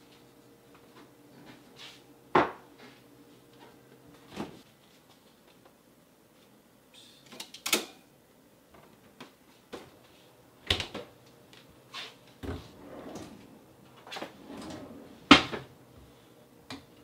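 Kitchen objects handled while coffee is being made: about half a dozen sharp knocks and clacks, spaced a second or more apart, over a faint steady hum.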